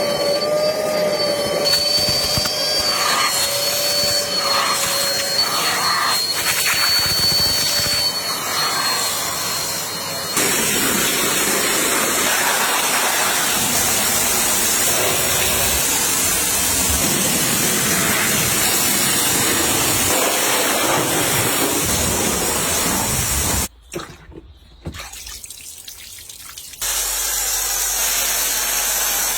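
Car wash equipment at work. A machine whines steadily over rushing water spray for about ten seconds. Then comes a steady hiss of spray, broken by abrupt cuts, with a brief quieter stretch near the end before the spray noise returns.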